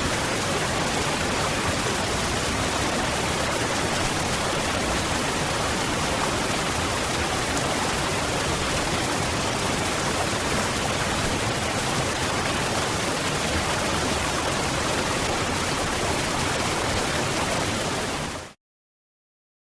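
Waterfall: a steady rush of falling water with no change in level, which dies away within about half a second and cuts to silence near the end.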